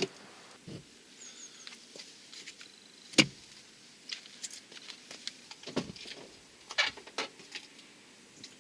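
Scattered light metallic clicks and knocks of work under a car as the front subframe is raised back into place, with a few sharper knocks about three, six and seven seconds in.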